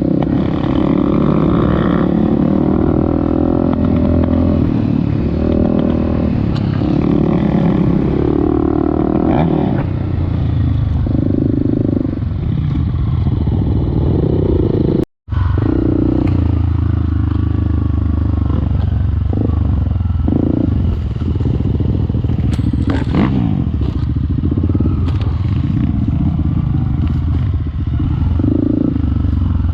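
Off-road motorcycle engine running under load and revving up and down as it is ridden through sand. The sound cuts out abruptly for a moment about halfway through.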